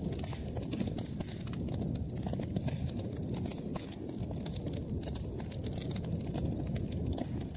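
Wood fire burning: a steady low rumble of flames with many small, irregular crackles and pops.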